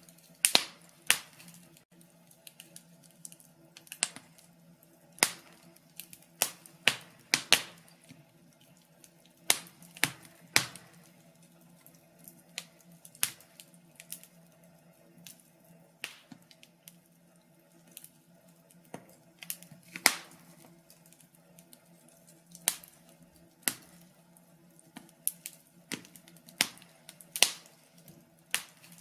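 Wood fire crackling in a fireplace: irregular sharp pops and snaps, often two or three close together, a few every couple of seconds, over a faint steady low hum.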